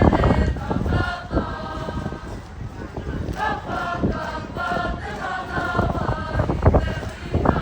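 A group of Māori children singing and chanting together in Māori performance, in short held phrases, with several sharp slaps cutting through, the loudest at the very start and near the end.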